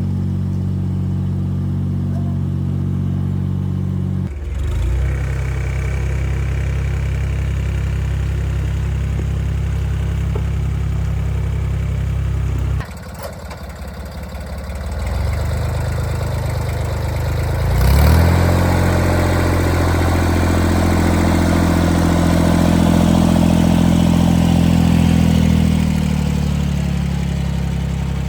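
An engine running steadily. It falls to a lower, uneven idle for a couple of seconds about halfway through, then picks up again and revs up after a click around two thirds of the way in, before settling.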